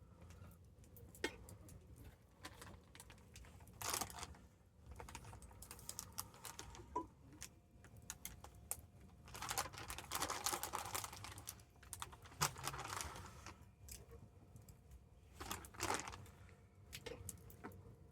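Wood campfire crackling, with scattered sharp pops and denser spells of crackle about 4, 10 and 16 seconds in.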